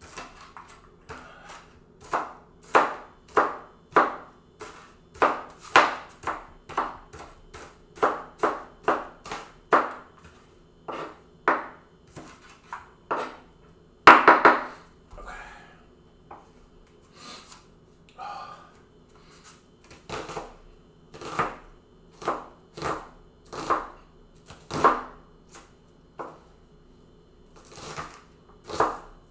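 Kitchen knife chopping an onion on a cutting board: separate strikes at about one to two a second, with one louder knock about halfway and a few seconds of sparser strikes after it.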